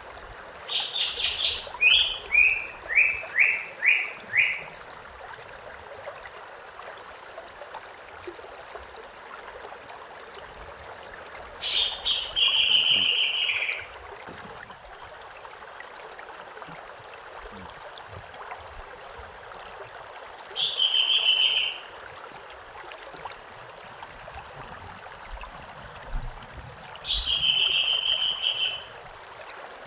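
A stream running steadily, with a songbird singing over it four times. The first phrase is the longest: rapid high notes stepping down into a string of separate strokes. Three shorter trilled phrases follow, spaced about eight seconds apart.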